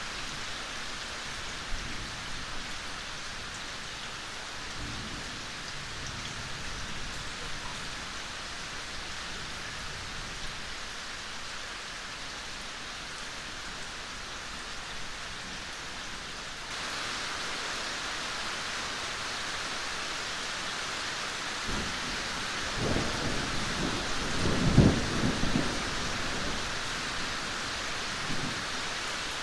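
Steady rain falling as an even hiss, which suddenly grows louder a little past halfway. Late on, a low rumble of thunder swells for a few seconds, peaks and fades.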